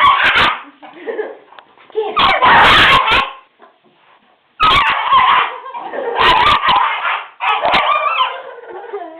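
Two dogs fighting, their noise coming in loud bursts, with a lull of about a second partway through.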